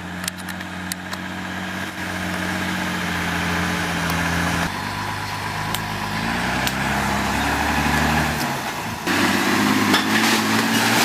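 A heavy vehicle's engine running, its pitch shifting twice. About nine seconds in, it gives way to a louder, noisier stretch with rattling and sharp clicks.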